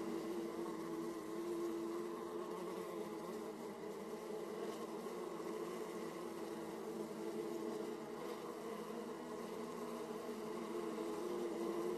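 Many honeybees buzzing at the hive entrance: a steady, unbroken hum of wingbeats.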